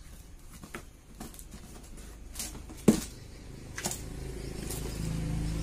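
Scattered light clicks and taps of small engine parts and packaging being handled, the sharpest a little before three seconds in. From about four seconds a low engine hum grows louder.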